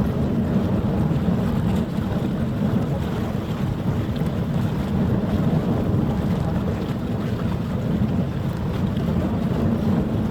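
Wind on the microphone: a steady low rumble with no horn or other distinct sound.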